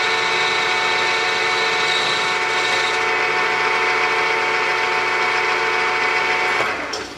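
Milling machine end mill cutting a cast iron backing plate, a steady whining and chattering cut with several steady tones. About a second before the end the sound drops away sharply, leaving a quieter running hum.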